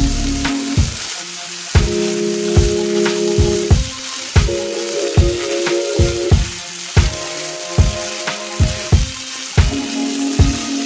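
Corn kernels sizzling as they fry in a pan and are stirred with a spatula. Background music with a steady beat plays over it.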